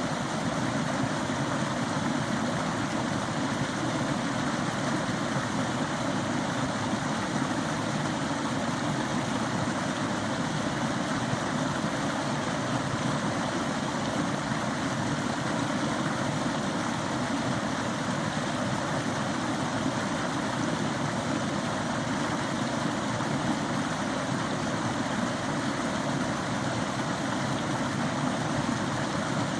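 Small forest stream running, a steady, even rush of water.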